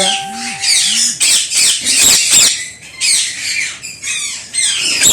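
A flock of ringneck parakeets squawking and screeching, many shrill calls overlapping in bursts with short lulls.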